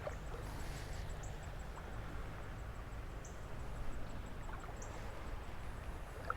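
Outdoor creek ambience: a steady low rush of moving water and air, with a faint rapid high ticking and a few short high chirps from small creatures.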